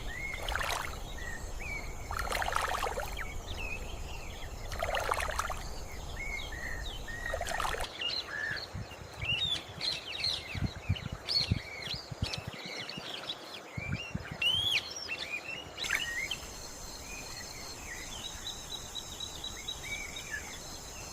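Wetland ambience: many small birds chirping and calling in short, scattered notes over steady background noise.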